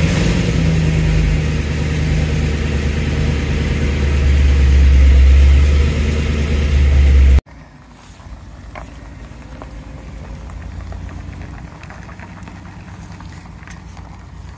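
Car engine running steadily and loudly, swelling a little then easing, until it cuts off suddenly about halfway in. After that there is only a faint background with a few light clicks.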